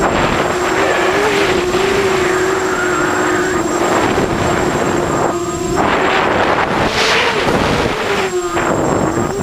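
QAV250 race quadcopter in flight, its propellers whining at a steady pitch that wavers with throttle, with surges of rushing noise. The whine drops out briefly twice, about five and a half and eight and a half seconds in.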